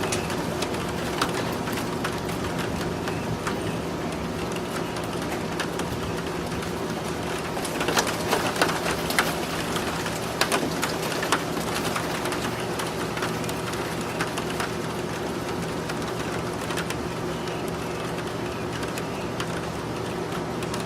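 Steady rain, with scattered sharp drops tapping close by that cluster about eight to eleven seconds in. A steady low hum runs underneath.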